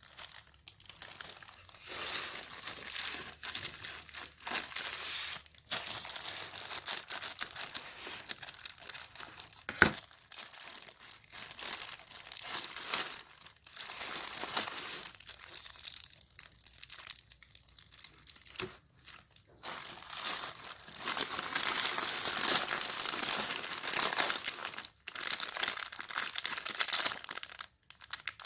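Plastic packaging crinkling and being torn open by hand, in irregular bursts of rustling, with a single sharp snap about ten seconds in.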